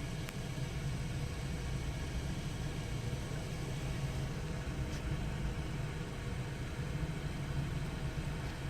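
Steady low mechanical rumble of a train running, holding at a constant level.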